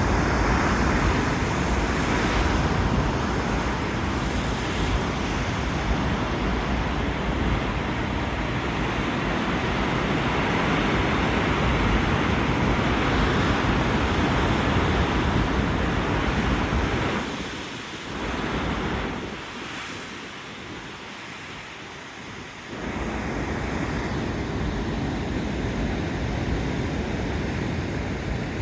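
Sea waves surging against a rocky shore in a continuous wash of surf, with wind buffeting the microphone. The surf drops away for a few seconds about two-thirds of the way through, then swells back.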